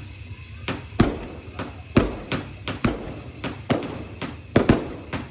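Fireworks going off in quick succession: a rapid, uneven string of sharp bangs, about three a second, some louder than others, with a little echo after each.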